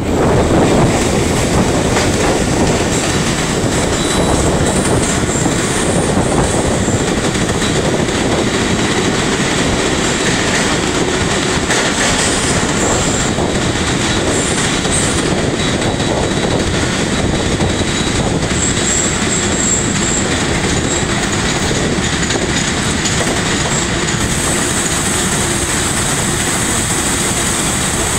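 Pakistan Railways passenger coach rolling along a station platform, heard from its open doorway. Its wheels rumble and clatter on the rails, with a high squeal now and then.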